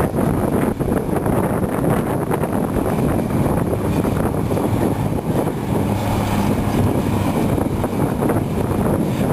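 Cat 345B hydraulic excavator's diesel engine working under load, a steady heavy rumble whose low note comes through more clearly for a couple of seconds past the middle. Wind buffets the microphone.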